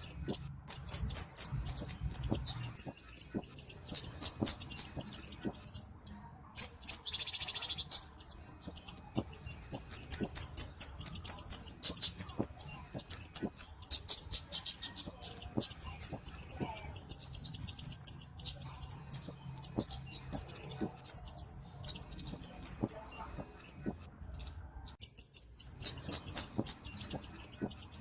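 Flowerpecker, the bird known in Indonesia as kemade or cabe-cabean, singing: rapid runs of high, thin chirps, about ten a second, in phrases of several seconds broken by short pauses.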